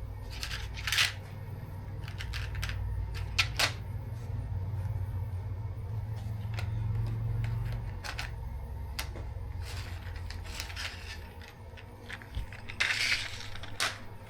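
TIG welder at work tacking a stainless steel plate: a steady low hum that swells in the middle, scattered metallic clicks and knocks of parts and torch being handled, and a short hiss near the end.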